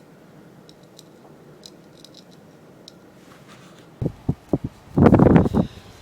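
Faint small clicks and scrapes, then from about four seconds in a run of loud, irregular rumbling thumps on the microphone, the loudest lasting about half a second near the end.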